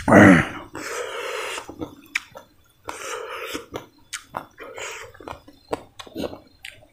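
Close-up chewing and crunching of crispy, slightly burnt rice crust (jola bhat), with wet mouth clicks and smacks in uneven bouts. A brief voiced sound falling in pitch, the loudest thing here, comes right at the start.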